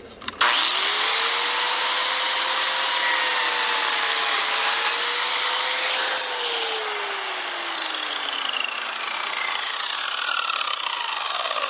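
Biscuit joiner motor switched on and spinning up to a steady high whine while it cuts a biscuit slot, with a slight dip in pitch midway. About six seconds in it is switched off, and the whine falls steadily as the blade winds down.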